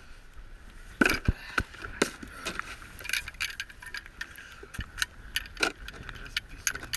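Irregular clattering and knocking of hard gear being handled. It starts about a second in with the loudest knocks, then carries on as a run of lighter clicks and rattles.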